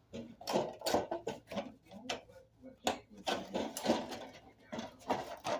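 Metal register vent being handled: a run of irregular clicks, taps and scrapes.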